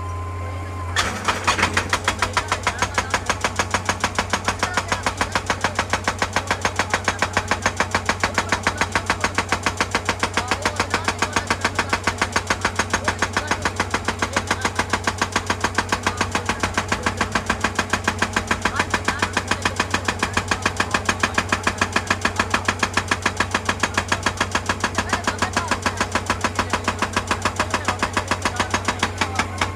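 Excavator's hydraulic rock breaker hammering, an even rapid train of blows about three a second that starts about a second in, over the steady hum of the excavator's diesel engine.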